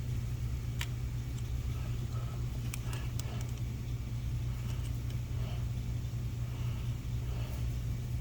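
Steady low hum of machine-shop machinery running, with a few light metallic clicks, about a second in and again around three seconds in, as the calipers are handled against the cylinder head.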